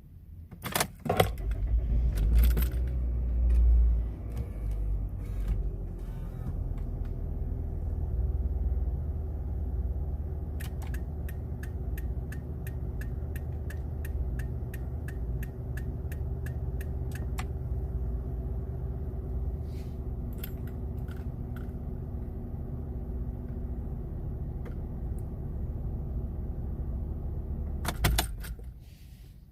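Second-generation Toyota Harrier being started with the key: clicks as the key turns, the starter cranks and the engine catches, then it idles steadily. Midway there is a run of even ticks, about three a second, for several seconds, and near the end more clicks and the engine shuts off.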